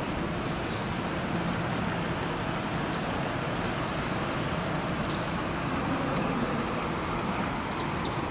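Steady city traffic noise, with a few short high chirps now and then.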